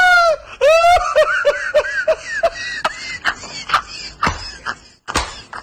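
High-pitched human laughter: a quick run of short 'ha' bursts that fades out about halfway through, followed by a few scattered sharp clicks or knocks.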